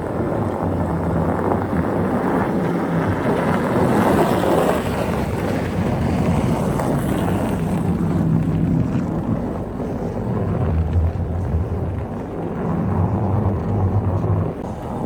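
A vehicle engine running steadily, with its low hum rising and falling a few times, under heavy wind noise buffeting the microphone.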